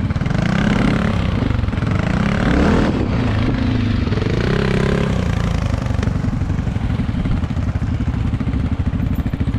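Dirt bike engine running, its pitch rising and falling through the first few seconds, then settling to a steady, even beat for the second half.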